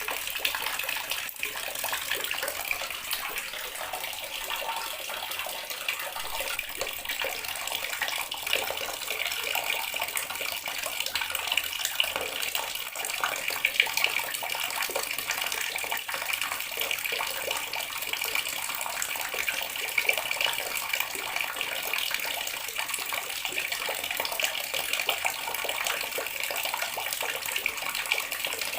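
Water running steadily from a tap, a continuous splashing hiss with the most energy in the upper range and no pauses.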